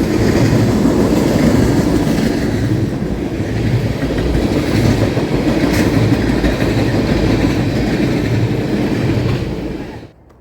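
Railroad cars rolling past close by: a loud, steady rumble with wheel clatter. It cuts off suddenly near the end.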